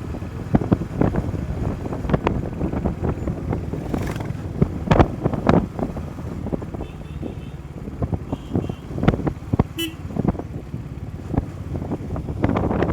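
Riding a motorcycle through traffic: wind buffets the microphone in uneven gusts over steady road and vehicle noise. A vehicle horn toots faintly twice in the second half.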